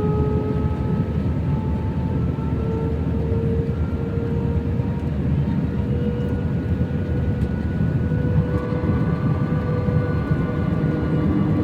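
Airbus A319 jet airliner heard from inside the cabin on approach: a steady rumble of engine and airflow noise with a few whining engine tones that slowly shift in pitch, a new tone joining about eight seconds in as the thrust changes.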